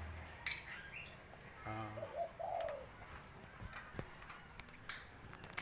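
Spotted dove giving a low coo about two seconds in, followed by a few short higher call notes, with several sharp clicks scattered through.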